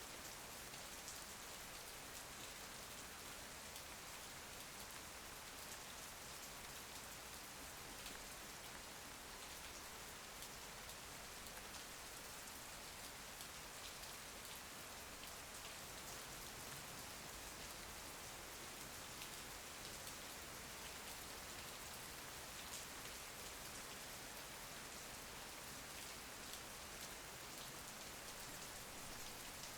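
Steady rain, an even hiss with many fine drop ticks, falling on a surface such as a window.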